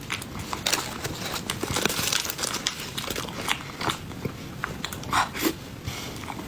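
Close-miked chewing of soft, sticky snow-skin mochi, a dense run of short mouth clicks and smacks, busiest about a second to three seconds in, with two louder smacks about five seconds in.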